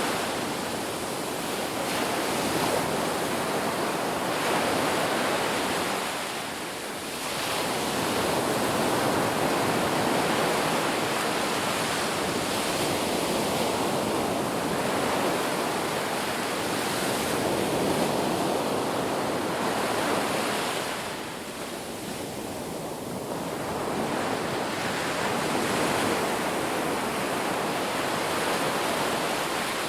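Ocean waves breaking and washing onto a beach: a continuous rush of surf that swells and eases, with two brief lulls as waves draw back.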